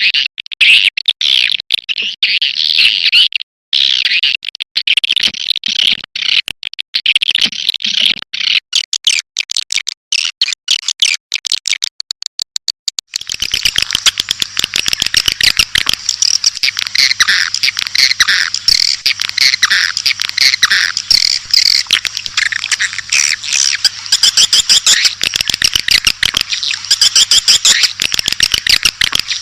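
Recorded swiftlet calls: rapid, buzzy chattering chirps in quick runs, a call sound used to lure swiftlets into a swiftlet house. About 13 seconds in, the sound switches to a denser, fuller chorus with a faint low hum beneath.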